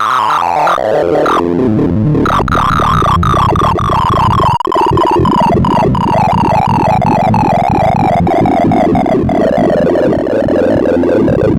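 Sorting-algorithm sonification from the Sound of Sorting program: a rapid, dense stream of short synthesized beeps, each pitch standing for an array value being accessed. It starts suddenly and the pitches drift gradually lower.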